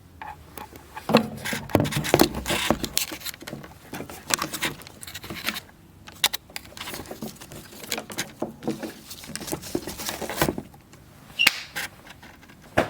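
Kitchen handling sounds: irregular clicks, knocks and clinks of utensils and dishes, a few sharper knocks standing out.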